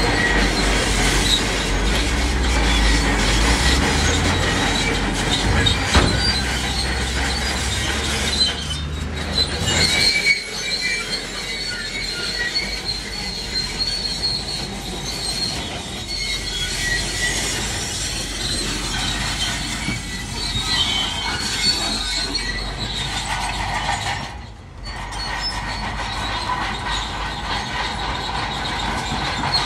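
Bulldozer running with its steel tracks squealing and clanking, over a heavy low engine rumble that eases off about ten seconds in, leaving high-pitched track squeal.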